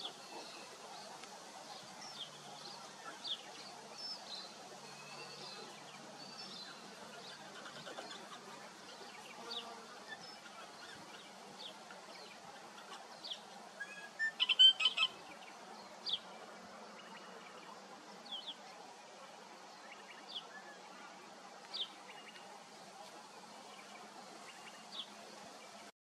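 Wild birds chirping: short, high, downward-sliding notes every second or two over a faint steady background noise, with a louder cluster of calls about halfway through.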